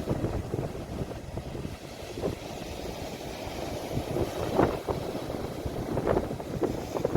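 Sea waves washing in a steady, rumbling surge of water noise, with a few short louder splashes about four and a half and six seconds in.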